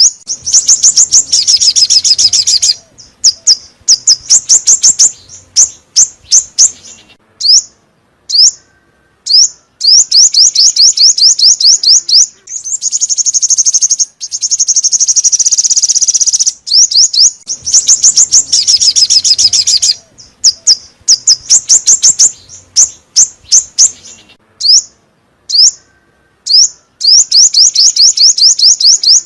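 Songbird call recording used as a trapping lure. It plays fast, high trills and sharp rising notes in phrases with short pauses, and the sequence repeats on a loop.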